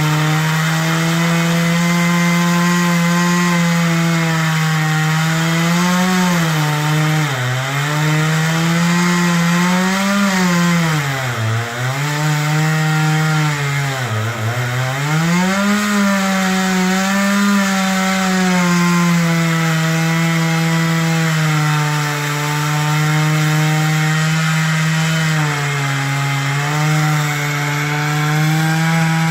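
Chainsaw running at high revs while cutting wood. The engine note stays mostly steady, dips sharply twice near the middle as it bogs down under load in the cut, then recovers.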